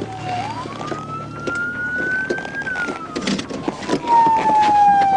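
Police car siren wailing through one slow cycle: the pitch rises for about two seconds, then falls slowly, growing louder over the last second or so.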